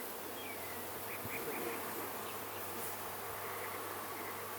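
Honeybees buzzing around an open hive, a steady hum from many bees; the colony is agitated ('acting bad').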